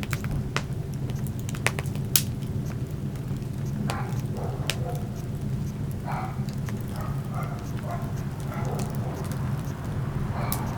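Wood fire crackling: sharp pops and snaps, the loudest in the first couple of seconds, over a steady low rumble of burning.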